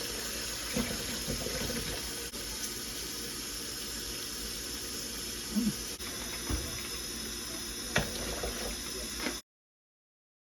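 Water running steadily from a kitchen faucet, with a few light knocks over it; it cuts off suddenly near the end.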